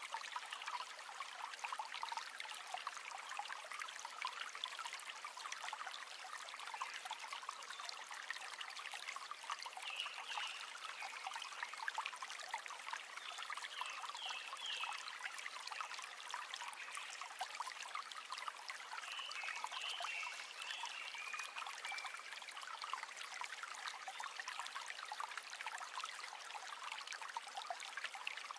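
River water flowing over stones, a steady rush of water with many small trickles and splashes throughout. A few short high chirps sound faintly over it about ten, fourteen and twenty seconds in.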